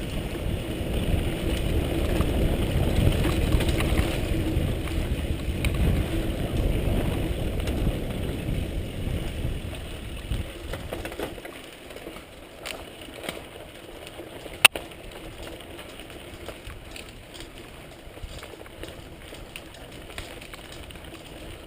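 Wind rushing over the microphone and tyre rumble from a bicycle riding fast on a dirt trail; about ten seconds in it eases to quieter rolling with light rattles and clicks, and one sharp click about fifteen seconds in.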